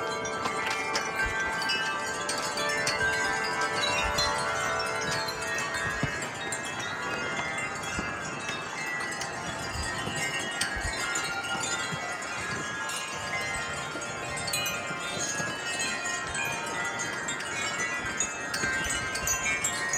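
Several wind chimes ringing continuously in strong gusty wind, many overlapping tones struck again and again, with some wind rumble on the microphone.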